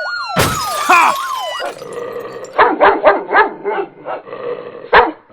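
A police siren wailing up and down, cut across by a sudden loud noisy burst about half a second in; the siren stops and a dog barks repeatedly, about three barks a second. A sharp click comes near the end.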